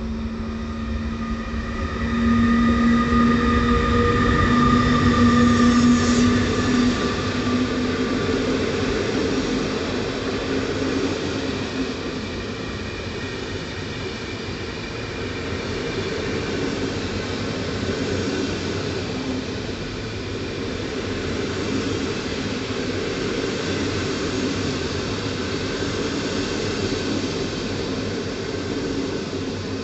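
Train passing on the tracks through a station: a steady whine for about the first eight seconds, then a long, even rumble of wheels on rails.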